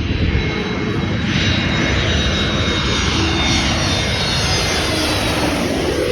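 Jet airliner passing low overhead: a loud engine roar with a whine that falls steadily in pitch as the plane goes by.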